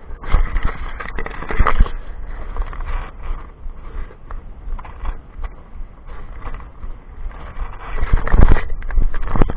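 Scraping and rustling close to the microphone in two loud stretches, one at the start and one near the end, over a steady low wind rumble on the microphone.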